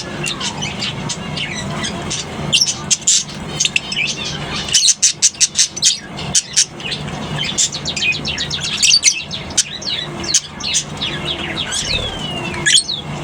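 A colony of lovebirds chattering: many short, high-pitched chirps overlapping, with a quick run of calls about five seconds in and a single falling call near the end.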